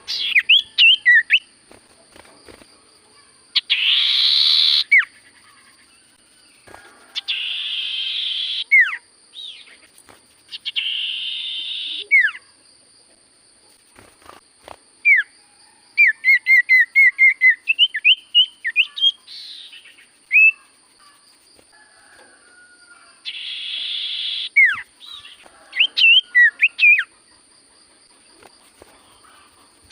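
Common iora (cipoh) singing: short, sharply falling whistled notes and quick runs of chirps, broken by harsh buzzy rasps lasting a second or so, several times over. A faint steady high-pitched tone runs beneath.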